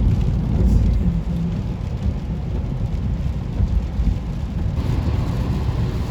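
Low, steady rumbling noise inside a storm-chase vehicle during a thunderstorm, with no distinct knocks or tones.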